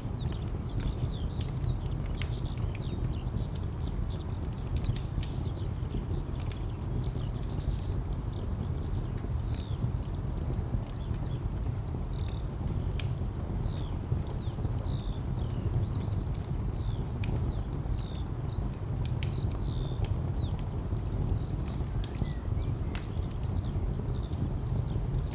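Layered ambience: a steady low rumble of distant traffic under a wood fire crackling with scattered sharp pops, and birds chirping in quick short notes.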